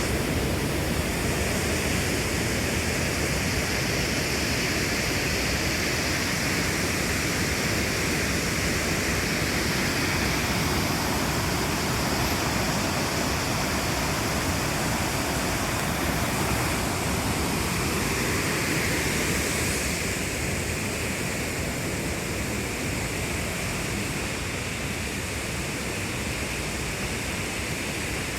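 Steady rush of fast-flowing, cascading water, easing slightly in level about two-thirds of the way through.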